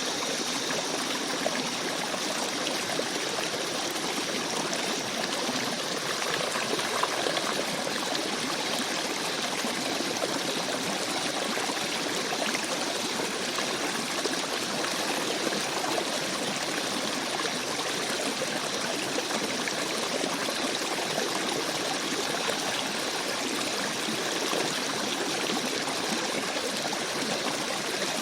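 Shallow forest stream babbling over rocks, a steady rush of running water with small trickles and splashes mixed in.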